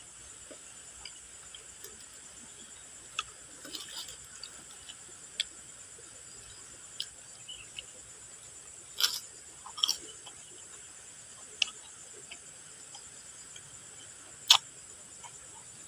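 Scattered short, sharp crunches of crispy basreng chips being bitten and chewed. The loudest comes near the end, with a few close together about two-thirds of the way through, over a steady high-pitched insect drone.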